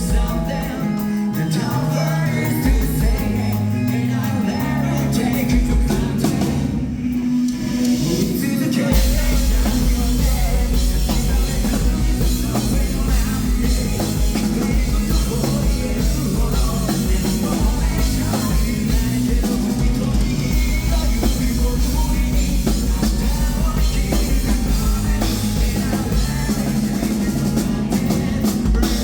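Rock band playing live at full volume: drum kit, guitars and bass. The music thins out briefly about seven seconds in, then the full band comes back with a driving kick drum.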